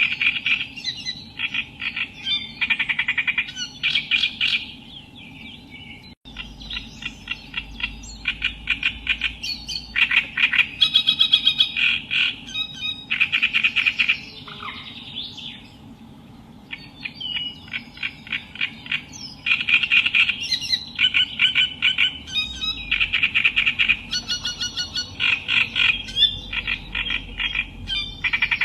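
Reed warbler singing: loud, harsh chattering phrases of rapidly repeated notes, each phrase a second or two long with short pauses between them.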